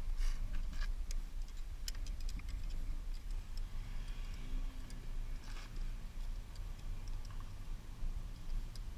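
Sparse light clicks and taps of hand tools working on a small motorcycle, over a steady low rumble.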